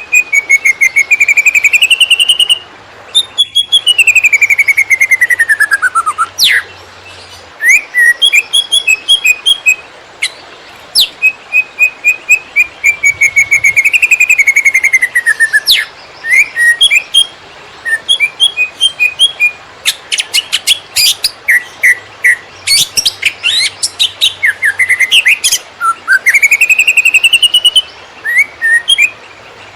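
Green leafbird (cucak ijo) singing a loud, fast, varied song in the erratic 'konslet' style. It runs long slurred whistles that rise and fall, quick series of short repeated notes, and a dense burst of rapid notes about two-thirds of the way through, with only brief gaps.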